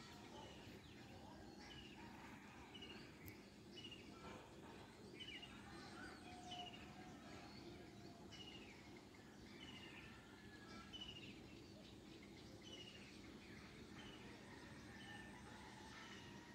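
Faint birdsong over a steady low hum: a short, high falling chirp repeated roughly once a second, with other bird calls now and then.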